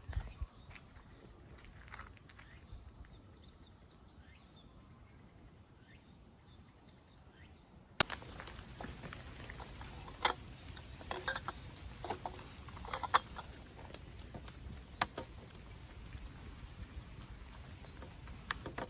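Steady, high-pitched chorus of insects. About eight seconds in comes one sharp click, followed by scattered light clicks and knocks.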